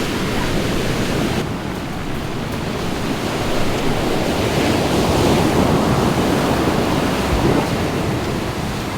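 Ocean surf breaking and washing up a sandy beach, a wave surging louder about five seconds in, with wind buffeting the microphone.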